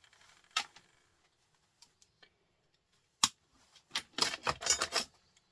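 Small pieces of scrap metal clicking and clinking as they are handled: a sharp click about half a second in, a louder one just past three seconds, then a quick rattling clatter of several pieces lasting about a second near the end.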